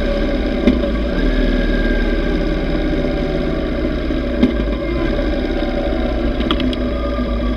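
Yamaha V Star 950's V-twin engine running steadily, with a constant low rumble underneath and no change in pace.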